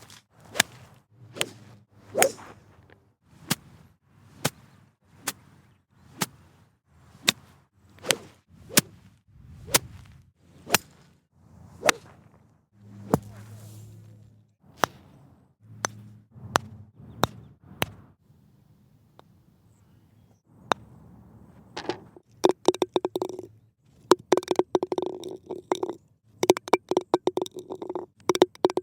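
A quick series of single golf club strikes on a ball, each a sharp click, about one every second. After a short lull near two-thirds of the way through, they give way to dense metallic clinking and rattling with a ringing note.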